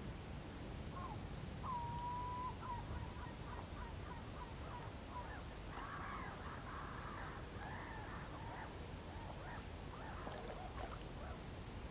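Whooper swans calling: one held, trumpeting note about two seconds in, followed by a run of short honking calls, which become a busier chorus of overlapping calls around the middle. A low steady rumble lies underneath.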